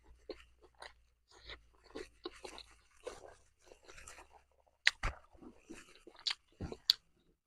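Close-up chewing of a crunchy fried-chicken burger: irregular wet crunches and mouth clicks, with a few sharper snaps near the end.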